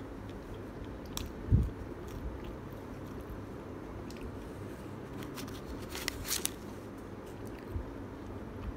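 Close-miked chewing of pizza crust, with wet mouth sounds. There is a soft thump about a second and a half in and a short crackly rustle around six seconds in.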